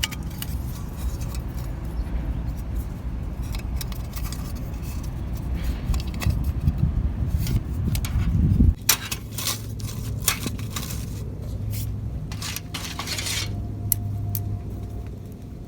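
Metal camping gear being handled: many sharp clinks, taps and scrapes. A low rumble underneath stops suddenly about nine seconds in.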